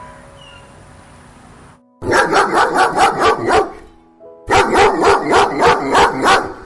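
A dog barking in two quick runs of about five barks a second, each run lasting about a second and a half, with a short pause between. The barking begins about two seconds in, after soft background music.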